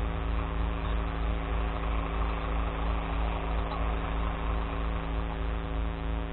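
Glass collection truck's diesel engine running steadily, heard from inside the cab.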